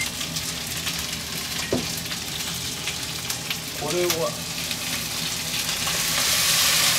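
Chicken drumettes sizzling in hot oil in a wok, with the clicks and scrapes of a spatula stirring them against the pan. The sizzle grows louder near the end as Chinese soy sauce goes into the hot wok.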